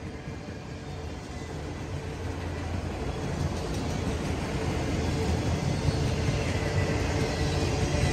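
CSX freight train's autorack cars rolling past, a steady rumble of wheels on rail growing gradually louder.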